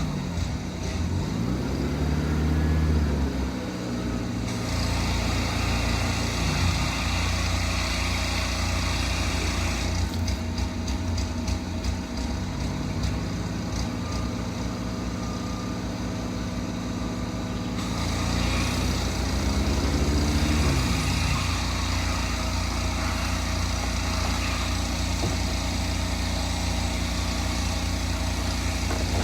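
Car engine running, its pitch rising and falling near the start and again about two-thirds of the way through.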